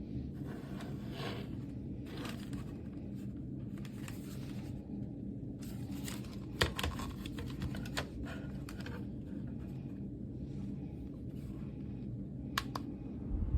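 Light rustling and a few sharp clicks of things being handled, over a steady low hum.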